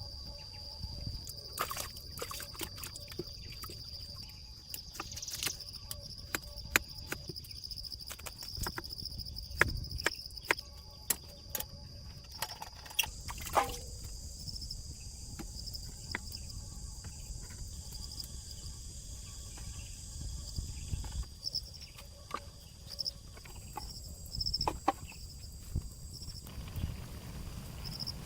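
A steady, high insect trill runs throughout, with another high, faint band in its middle stretch. Irregular sharp clicks and knocks, like hand-tool or material handling, sound over it.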